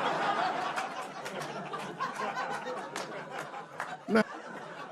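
Live audience laughing, with a few scattered claps mixed in. The laughter slowly dies down.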